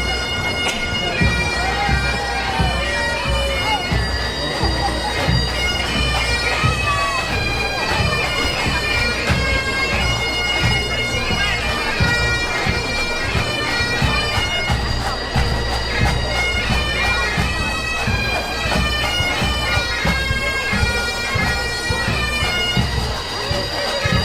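Bagpipes playing a marching tune in held notes that step from pitch to pitch, over low thumps that sound like drums.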